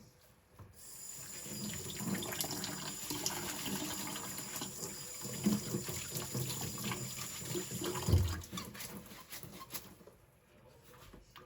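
Water running from a kitchen tap into a sink during dishwashing, with small clinks of cutlery being handled. The running water starts about a second in and stops after about eight seconds, around a dull thump.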